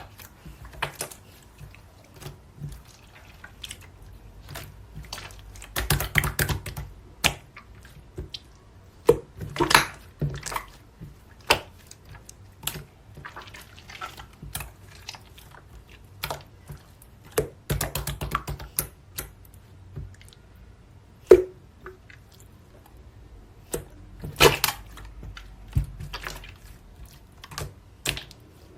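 Hands working slime, making irregular wet clicks and pops, with a few denser runs of crackling scattered through.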